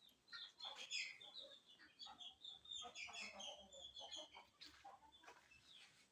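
Chickens calling faintly: a string of short, high clucks and chirps that thins out after about four seconds.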